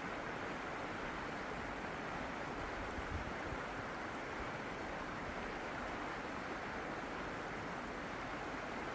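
Steady, even rush of running water, with no surges or breaks.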